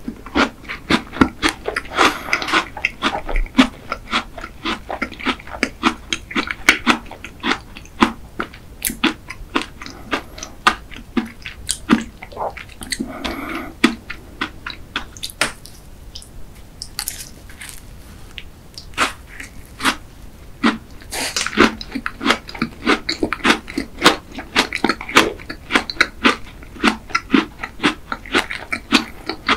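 Close-miked chewing and crunching of a chocolate caramel banana tart. Many quick, crisp clicks of the crust mix with wet mouth sounds.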